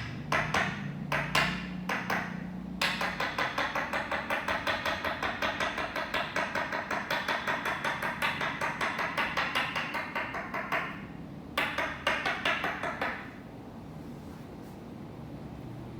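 Toksen massage: a wooden mallet knocking a wooden peg held against the body. A few slower, separate strikes give way to a quick, even rhythm of about five taps a second, then a short burst of knocks before the tapping stops.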